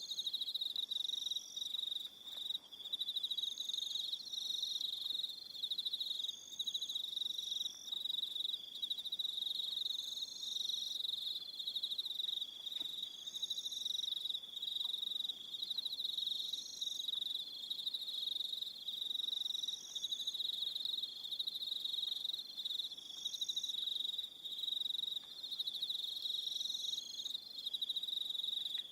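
Evening chorus of crickets: a continuous, high, pulsing trill, with a second, higher call over it that repeats in short phrases every second or two.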